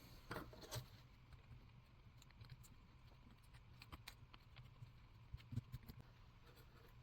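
Near silence with a few faint clicks and taps of small carburetor parts being handled on the workbench.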